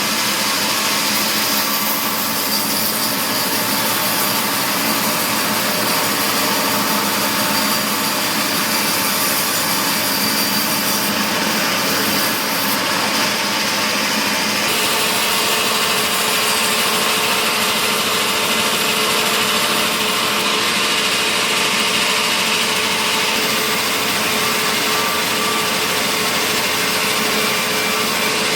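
Sawmill saw and its motor running steadily, a continuous loud mechanical noise with no pauses; a faint steady tone comes in about halfway through.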